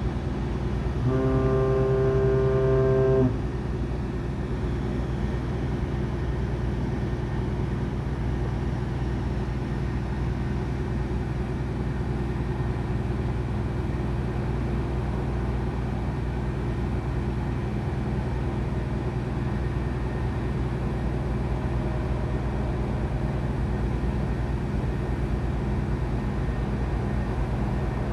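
A ship's horn gives one low blast of about two seconds, starting about a second in, over a steady low engine drone.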